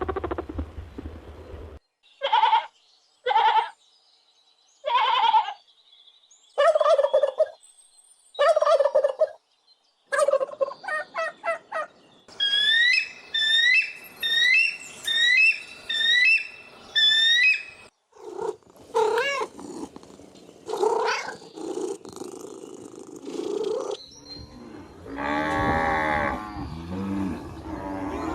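A run of different animal calls edited one after another: first short calls about a second apart, then a rapid series, then several seconds of high chirps repeated about twice a second, then other lower calls.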